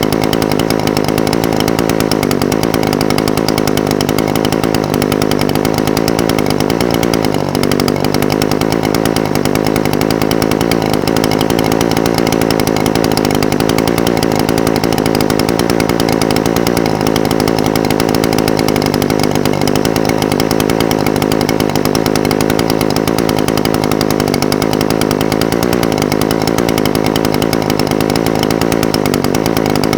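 Echo SRM-420TES brush cutter's two-stroke engine idling steadily, its pitch wavering slightly.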